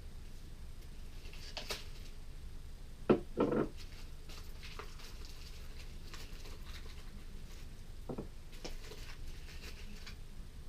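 Skateboard wheels and hardware being handled during assembly: scattered clicks and knocks, the loudest a sharp knock with a quick cluster of knocks about three seconds in, over a low steady hum.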